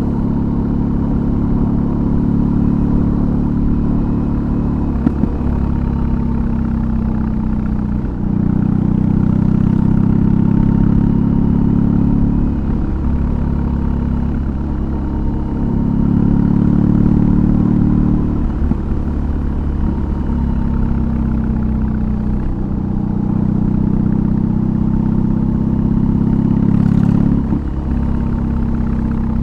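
BMW R18's 1802 cc flat-twin boxer engine with an aftermarket exhaust, heard under way. It runs at a steady pitch, and the note dips briefly every few seconds as the throttle comes off and back on.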